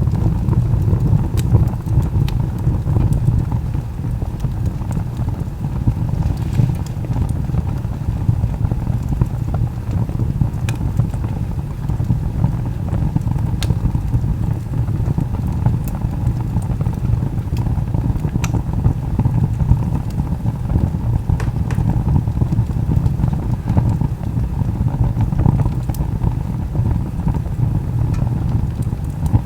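Wood fire burning: a steady low roar of flames with a handful of sharp crackling pops from the burning log.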